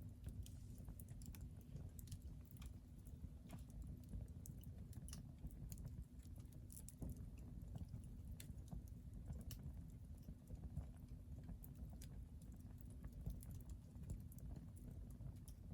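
Hardwood fire burning in a fire pit, crackling with small irregular pops and snaps over a low steady rumble.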